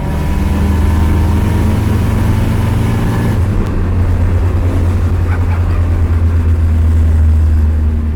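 Turbocharged 1JZ inline-six engine and exhaust heard from inside the car: a steady low drone that grows louder through the middle and eases off near the end.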